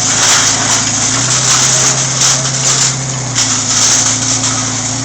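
Scrap-yard crusher working: its engine hums steadily under a loud rushing hiss that surges and eases. The engine note steps up about a second in and drops back a little after three seconds.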